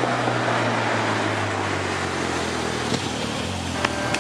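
A lorry drives past close by, its engine running low and steady over road noise. Near the end a truck horn starts sounding a steady note.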